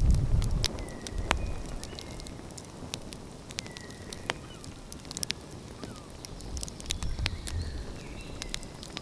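Outdoor wood fire crackling, with irregular sharp pops and snaps. Wind rumbles on the microphone in the first second, then drops away.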